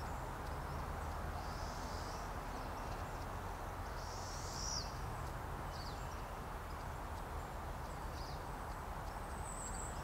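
Steady outdoor background noise with a few faint, high-pitched bird chirps, including one short downward-sweeping call about four to five seconds in.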